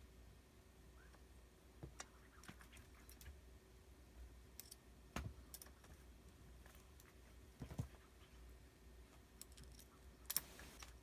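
Faint, scattered taps and clicks of a cat at play with a toy, a few seconds apart, with a brief rustle near the end.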